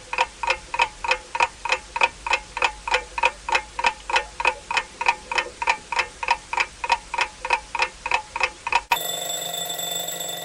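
A falcon calling: a fast, even series of sharp 'kak-kak' notes, about four a second. Near the end the calls stop and a short, steady chime-like tone takes over.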